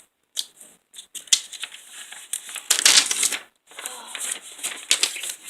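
Close, irregular rustling and scratchy crackling bursts of a pet bird moving and flapping right against the microphone, loudest about three seconds in.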